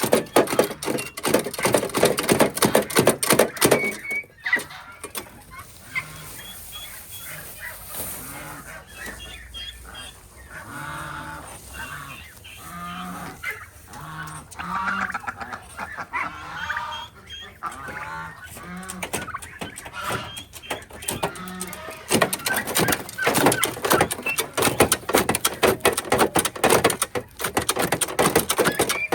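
A flock of farm poultry calling, with honks and clucks. A loud, busy chorus of calls at the start and again near the end, with quieter, separate calls in between.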